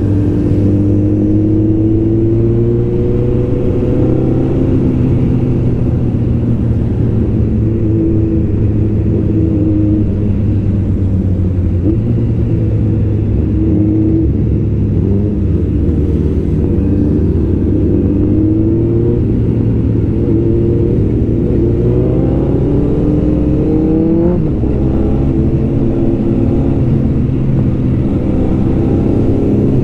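Loud superbike engines running together in a moving group ride, including Suzuki Hayabusas, their notes rising and falling as riders work the throttle. A rev climbs noticeably about three quarters of the way in.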